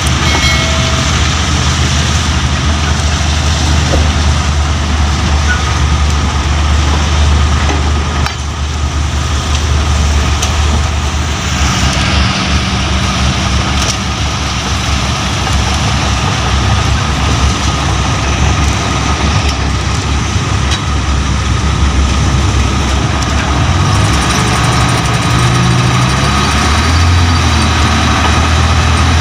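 Mitsubishi Fuso dump truck diesel engines running steadily under load, with the engine note rising near the end.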